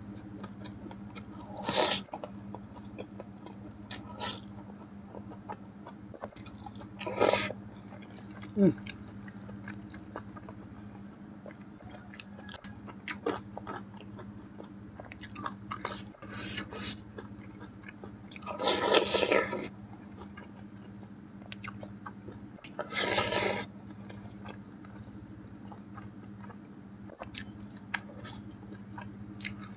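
Close-miked chewing and mouth noises of a person eating rice and catfish by hand, with several short louder smacks or slurps, the longest about 19 and 23 seconds in, over a steady low hum.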